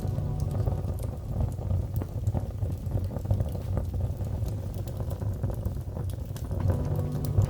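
Wood fire crackling in a fireplace: scattered sharp crackles and pops over a low, steady rumble.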